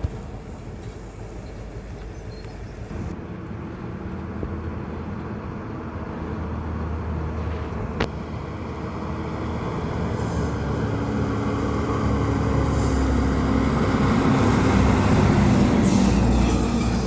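Heavy vehicle engine on the road, a truck by the sound of the traffic, running and growing steadily louder as it comes closer, then falling away near the end. A single sharp click about eight seconds in.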